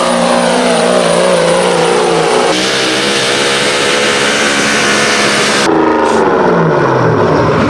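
Competition pulling vehicle's engine running hard under load, its pitch wavering, with abrupt jumps in the sound about a third and three-quarters of the way through, then falling steadily in pitch near the end as the engine winds down.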